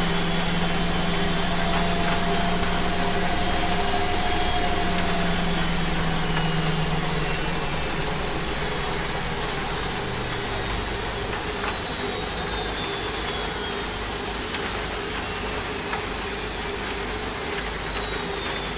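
Washing machine running over a steady hiss of rain. A low hum stops about halfway through, and a high motor whine falls steadily in pitch through the second half, like the drum winding down.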